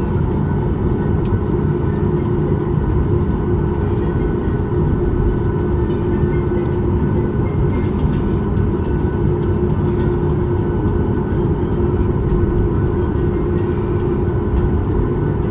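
Steady cabin noise inside a parked Boeing 737 MAX 8: a constant low rumble and airflow rush with a steady hum running through it, typical of the cabin air conditioning running.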